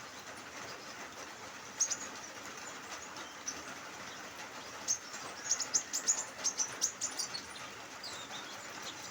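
Steady hiss of light drizzle with a small bird's sharp high chirps: a pair about two seconds in, then a quick run of them in the middle.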